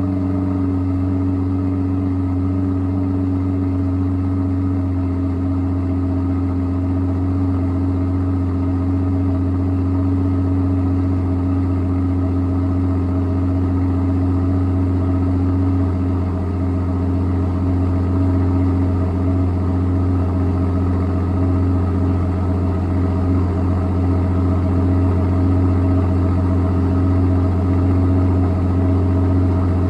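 Aston Martin V12 Vantage's twin-turbo V12 idling steadily, warming up after a cold start.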